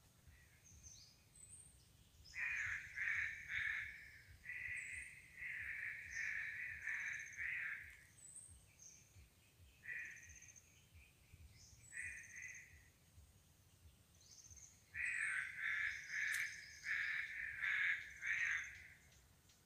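A bird giving bouts of rapid, harsh cawing calls, several times over, with the longest and loudest bout near the end.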